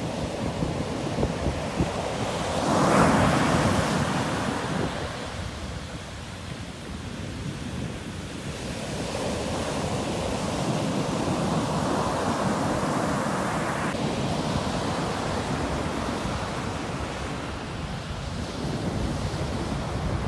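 Sea waves washing onto a shore: a swell of surf peaking about three seconds in, then a longer wash building through the middle.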